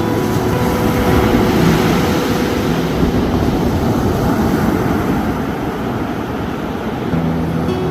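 Ocean waves washing on the shore in a continuous rushing noise with a heavy low rumble. Faint steady low hum tones come and go underneath.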